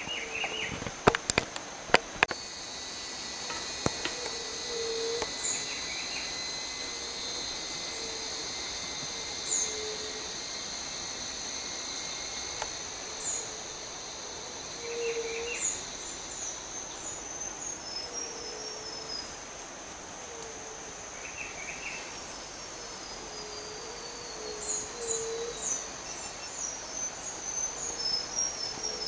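Forest ambience: a steady, high insect drone runs under scattered bird calls. The birds give short high chirps, a descending series of notes now and then, and low calls repeated every second or two. A few sharp clicks come about a second in.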